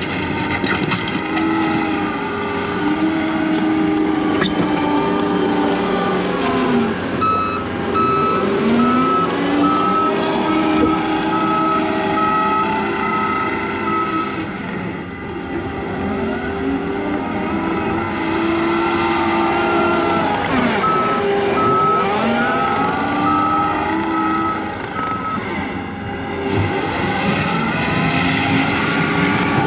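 John Deere 335P skid steer's engine running and repeatedly changing speed as the machine works gravel. Its backup alarm beeps steadily while it reverses, in two runs of several seconds each: a quarter of the way in and again past the middle.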